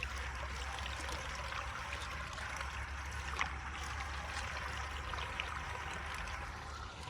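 Water running steadily through a cleared drain: a continuous rush with a low rumble beneath and a few faint ticks.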